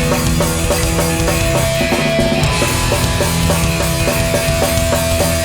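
Hardcore punk band playing live without vocals: distorted electric guitars, bass and drums driving a fast, steady rhythm.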